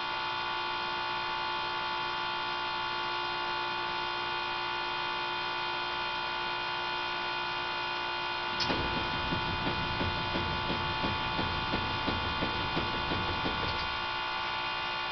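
A steady electrical hum made of many fixed tones. A little over halfway through, a low, uneven rumble with quick irregular pulses joins in for about five seconds, then stops.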